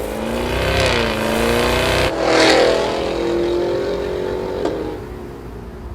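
2023 Cadillac Escalade V's 6.2-litre supercharged V8 accelerating hard. Its pitch rises and drops back at gear changes about one and two seconds in, and it is loudest just after the second. It then steadies and falls away, with a single sharp crack near the end.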